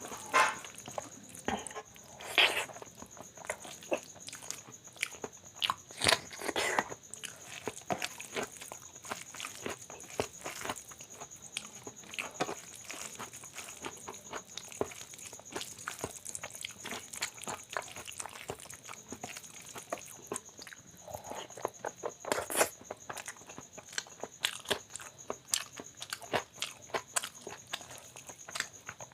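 Close-up eating sounds: a person chewing and biting mouthfuls of soft rice and mashed potato bharta, with irregular wet mouth clicks and occasional crunches. A faint steady high-pitched whine sits underneath.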